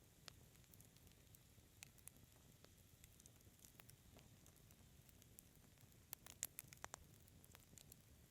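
Wood fire crackling softly: scattered small pops and ticks over a faint hiss, with a quick cluster of louder snaps about six seconds in.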